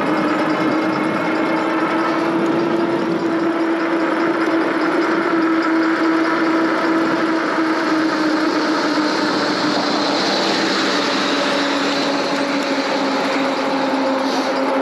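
Kreboc ES750 electric bike cruising: the hub motor's steady whine, drifting slightly in pitch, over wind rush and tyre noise.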